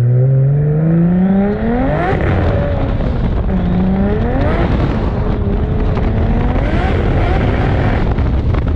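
Big-turbo Nissan Skyline R33 accelerating hard. The engine pitch climbs steeply for about two seconds, drops away, then climbs again twice more, as in repeated pulls through the gears.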